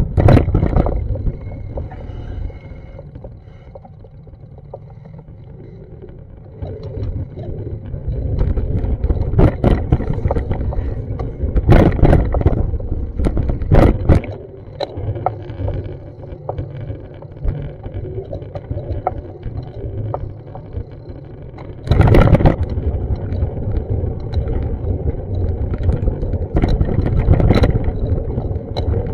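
City street noise: a low rumble of passing traffic that swells and fades, with scattered sharp knocks and clatters. It gets suddenly louder about 22 seconds in.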